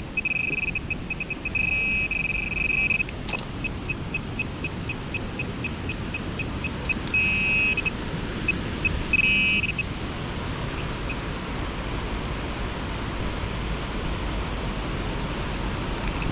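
Metal detector beeping on a target: a short high beep repeating about three to four times a second, breaking several times into longer held tones, one of them warbling. Wind rumbles on the microphone throughout.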